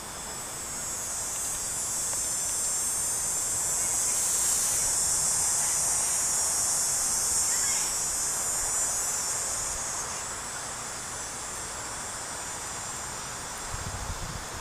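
Insects buzzing outdoors in a high, steady drone that swells over a few seconds and then fades away. A few low bumps near the end.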